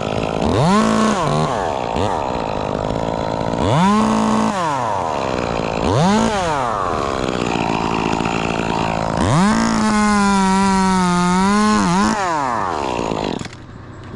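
Chainsaw revving in four throttle bursts, each rising sharply in pitch and falling back. The last burst is held at full speed for about three seconds, while cutting willow. The engine drops away just before the end.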